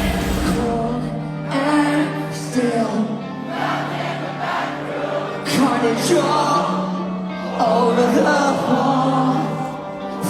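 Live rock band playing with singing, several voices at once. The deep bass drops out about half a second in, leaving held guitar and vocal notes.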